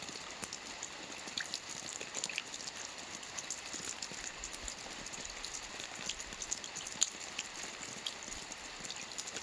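Soft rain falling steadily on a roof: an even patter with many scattered single drop taps, and one sharper tap about seven seconds in.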